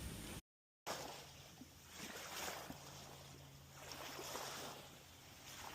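Faint moving water, a soft wash that swells and fades every second or two, after a brief dead-silent dropout about half a second in.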